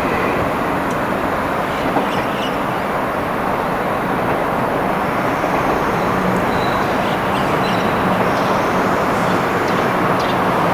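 A train running along the track past the station platform: a loud, steady rumble of wheels on rail.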